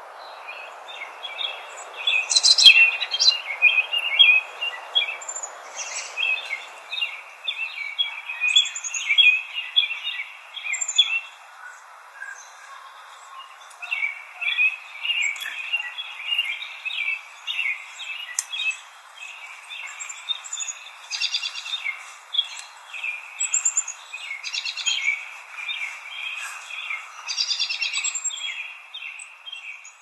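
Chorus of wild songbirds: many short chirps and trills overlapping, with no single song standing out. A soft steady hiss underlies the birds and fades out after about seven seconds.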